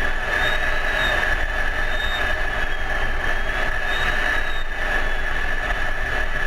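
Steady jet engine and airflow noise heard inside an F-16 fighter's cockpit, with a faint high whine that wavers slowly up and down about every two seconds.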